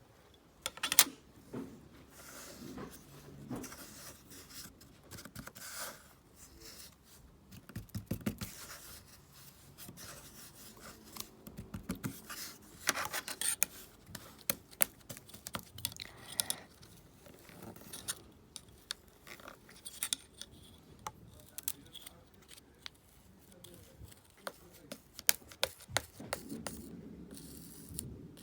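Kinetic sand being cut and scraped by hand with a tool: soft rasping, scraping sounds with many scattered sharp clicks.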